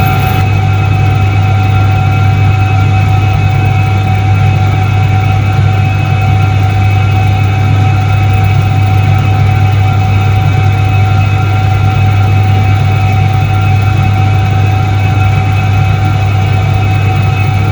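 Soviet Iset-3 washing machine from 1978 running, its electric motor giving a loud, steady hum with a strong low drone and a thin, constant higher whine, unchanging throughout.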